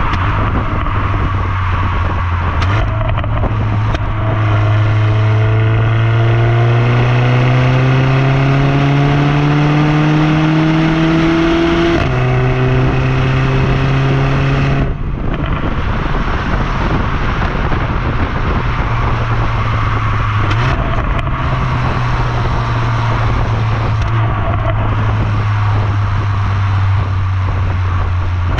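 Mercedes A45 AMG's turbocharged four-cylinder engine with AMG performance exhaust, pulling under acceleration: its pitch climbs steadily for about eight seconds, steps down at a gear change, then the driver lifts off and it runs at steady revs.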